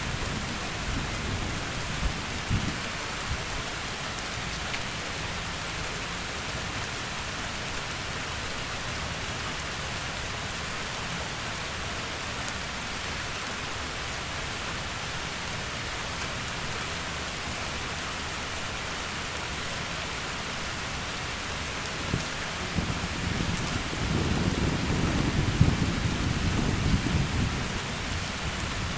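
Heavy rain falling steadily. Thunder rumbles low in the first couple of seconds, then a longer, louder roll of thunder builds about 22 seconds in and fades near the end.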